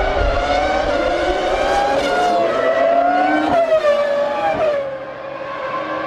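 Formula One V10 engine at high revs, its pitch climbing and dipping through gear changes, then falling and easing off about five seconds in as the car slows.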